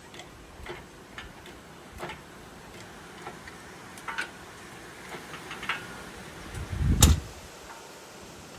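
Scattered light metallic clicks and taps from jacking up a heavy engine, with one heavy clunk about seven seconds in.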